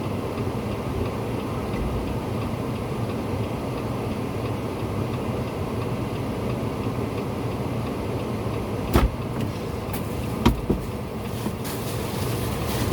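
A vehicle engine running steadily, with two sharp knocks late on, about a second and a half apart.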